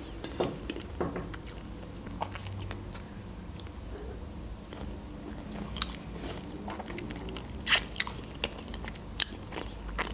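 A person chewing and biting chicken wings in sweet-and-sour sauce close to the microphone. Scattered sharp mouth clicks run throughout, the loudest near the end.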